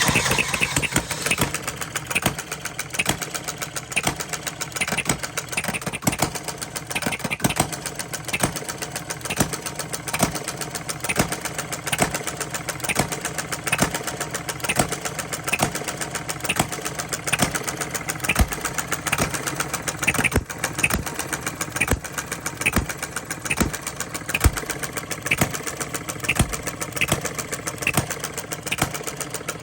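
Small Coles engine starting up abruptly and running with a rapid, even beat, with a few heavier, irregular strokes mixed in.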